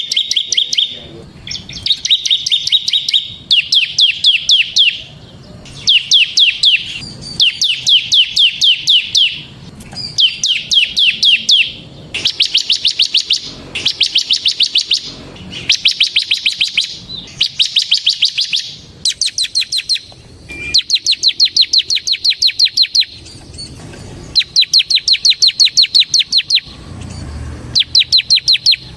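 Bar-winged prinia (ciblek) singing its rapid 'ngebren' song: bursts of quick, evenly spaced high notes, each burst about a second long, repeated every second or two.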